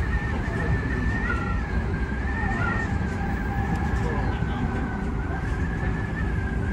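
A steady high wind whistle, wavering slightly, over the low running rumble of an Odakyu 3000-series electric train moving along the track, heard from just behind the front cab window.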